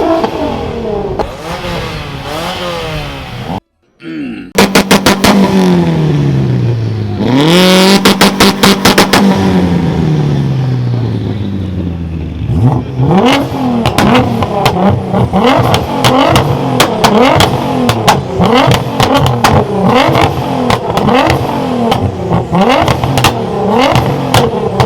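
Car engines in a two-step competition, held on the launch-control rev limiter so the exhaust fires rapid bangs and pops, with repeated revving and rev blips. A brief cut to silence comes about four seconds in.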